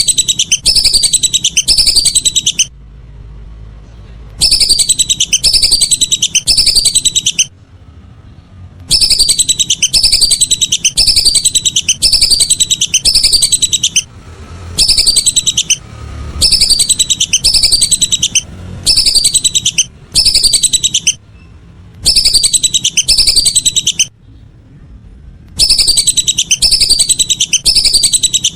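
Lesser whistling duck (belibis) calls played as a loud call-lure recording: bursts of rapid, high, descending whistled notes, each burst lasting a few seconds, broken by short pauses.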